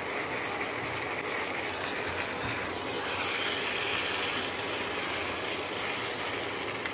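Steady sizzling of fried fish heads, potatoes and green peas cooking in spiced masala in a pan, a little louder midway.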